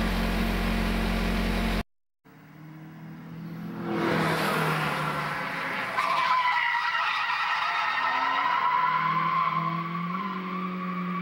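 Naturally aspirated Nissan Silvia S13 drifting on its stock muffler: the engine note rises and falls while the tyres squeal steadily from about six seconds in. It opens with a steady engine hum that cuts off abruptly about two seconds in, before the car's sound builds up.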